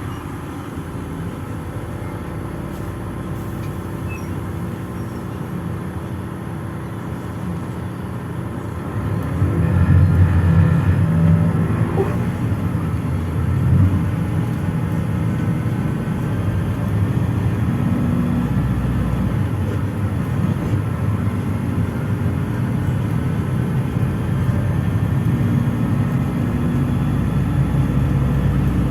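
Inside a PAZ-422320-14 Citymax 9 city bus under way: steady engine and road rumble, getting louder about nine seconds in and staying so, with a short knock a few seconds after that.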